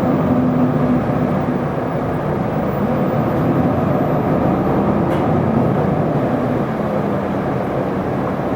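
Isuzu Erga city bus (PKG-LV234L2) running, a steady engine drone with a low hum, heard from inside the passenger cabin.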